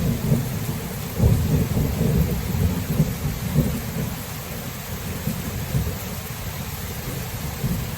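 Thunderstorm: a low rumble of rolling thunder over steady rain, the rumble swelling about a second in and easing off after the middle.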